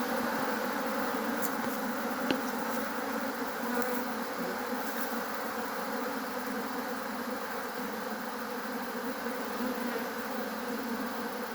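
Honeybee colony buzzing steadily around an opened hive during a frame inspection, with a few faint light clicks.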